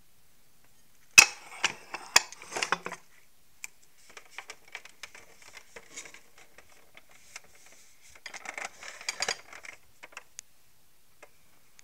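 Sharp clicks and bursts of light clattering, like small hard objects knocking together, about a second in and again near eight to ten seconds in.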